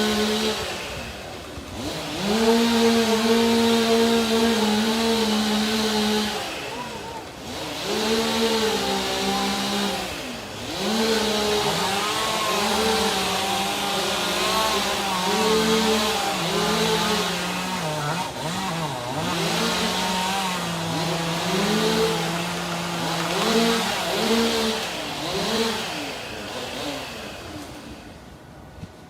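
Two-stroke chainsaw running at high revs. It drops off and revs back up several times, with its pitch wavering under the throttle, and dies away near the end.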